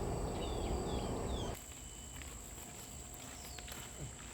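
Outdoor rural ambience: a steady high-pitched insect drone, with several short chirps falling in pitch, like bird calls. A louder low rumbling noise cuts off suddenly about a second and a half in.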